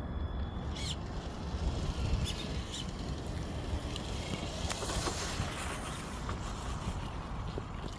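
Steady low rumble of distant highway traffic with wind on the microphone, swelling for a moment about halfway through, with a few short high chirps and small clicks over it.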